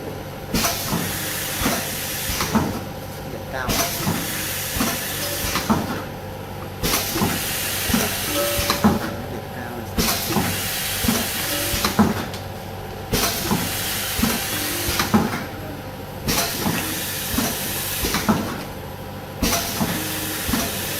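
Automatic tube filling and tail-sealing machine running through its cycle: a steady hiss that breaks off briefly about every three seconds, with mechanical clicks and clunks throughout.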